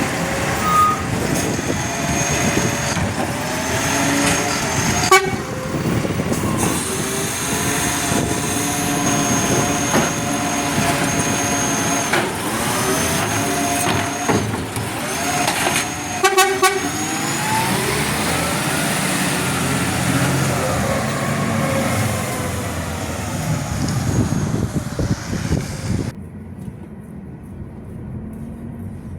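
Garbage truck at work: its diesel engine runs with revs rising and falling, under a thin high-pitched whine, with a couple of sharp clanks. The sound drops off suddenly near the end.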